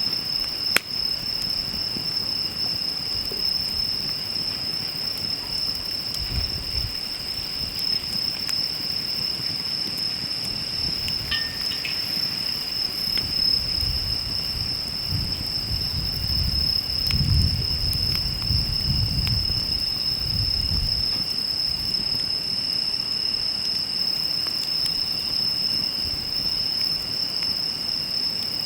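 Insects singing in a steady, unbroken high-pitched chorus, with a few sharp crackles from a wood campfire, the first and loudest about a second in. A soft low rumble rises and fades in the middle.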